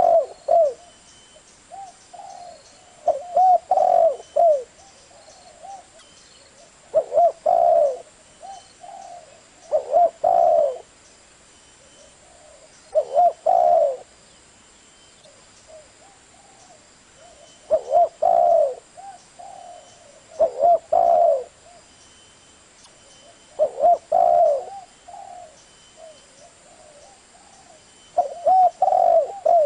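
Spotted dove cooing: short phrases of several coos, each about a second long, repeated every few seconds.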